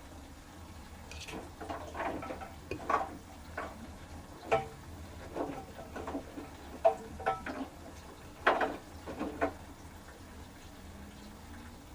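LG Turbowash 360 direct-drive washing machine in its 400 rpm final spin, giving a run of irregular clicks and knocks from the drum and load over a low steady hum. A steady low tone comes in near the end.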